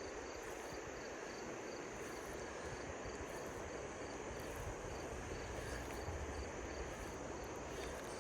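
Steady rush of river water, with a faint insect chirping repeating about two to three times a second.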